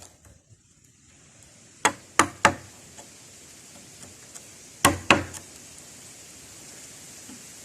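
Hammer blows on a wooden frame: three quick knocks about two seconds in, then two more about five seconds in.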